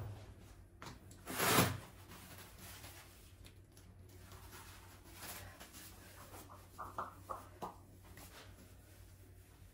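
Quiet household handling sounds over a low hum: a short loud swish or rustle about a second and a half in, then a few light clicks or taps around seven seconds in.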